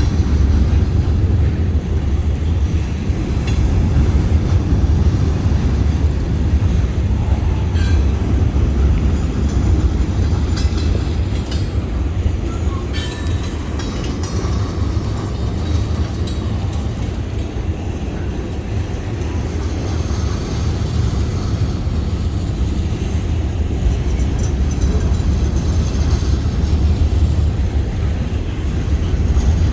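Freight train rolling by: a steady low rumble of wheels on rail, with a few sharp clanks about eight and thirteen seconds in.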